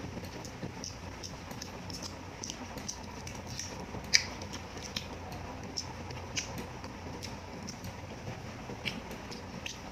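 Close-miked eating sounds: chewing with scattered sharp, wet mouth clicks, and the crinkle of a fresh lettuce leaf being handled. One click about four seconds in is much louder than the rest.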